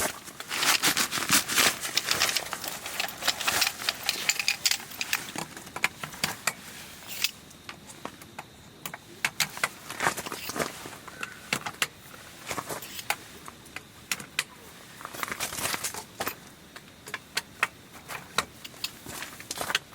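Camping gear being handled: a busy run of clicks, light knocks and rustling, dense for the first several seconds, then sparser.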